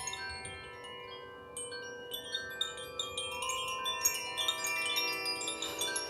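Chimes ringing: many small strikes with overlapping high notes that hang on. They are sparse at first and grow denser from about a second and a half in.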